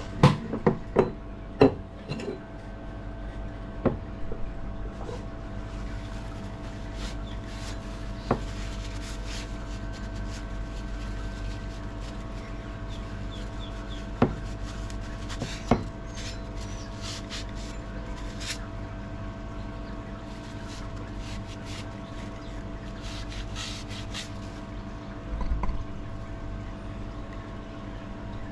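Work on a rusted axe head: faint rubbing and scraping, broken by a few sharp knocks, over a steady hum.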